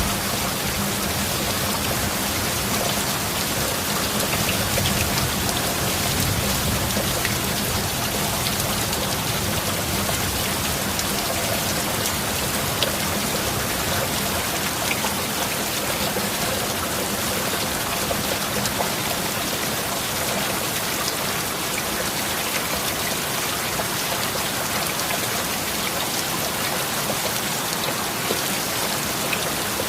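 Heavy rain falling steadily, with scattered louder drops ticking through the constant hiss.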